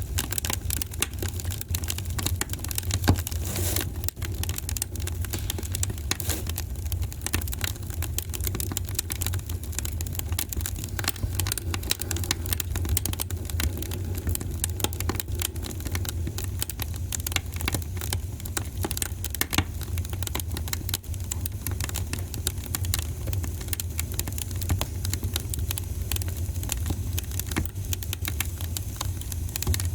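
Wood fire crackling in a fireplace: dense, irregular snaps and pops, one sharper pop about three seconds in, over a steady low rumble.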